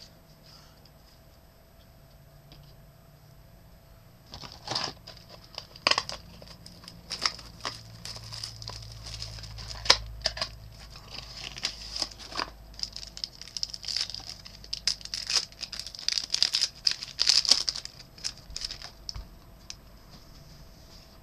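A trading-card pack wrapper being torn open and crinkled by hand, an irregular run of sharp crackles and rustles that starts about four seconds in and stops a few seconds before the end.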